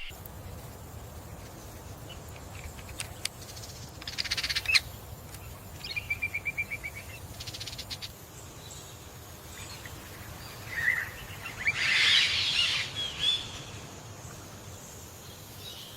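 Wild birds calling over a steady low background hum: a quick rattle about four seconds in, then a row of short chirps, and a busier burst of calls from about eleven to thirteen seconds.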